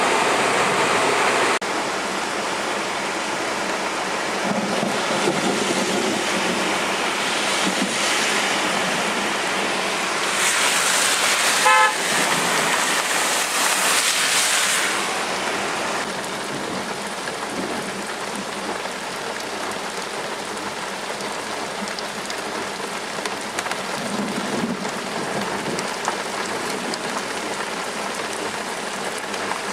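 Hard rain falling steadily. About twelve seconds in, a short car horn toot sounds over a louder few seconds of hissing water.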